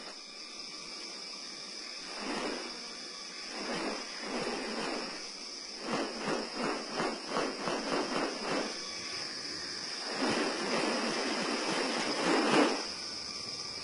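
Rainforest insects droning steadily at a high pitch, overlaid by several noisy rustling bursts, including a rapid pulsing series of about three beats a second midway and a longer burst near the end.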